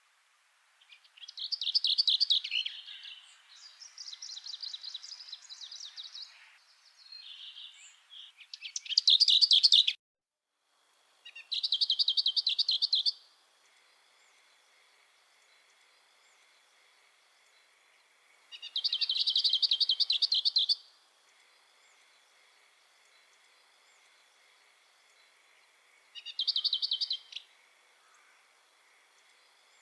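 Songbirds singing: several short bursts of rapid repeated notes, busiest in the first ten seconds, then three more bursts spaced several seconds apart. The sound cuts out completely for about a second near the ten-second mark, and a faint steady high whine sits under the later songs.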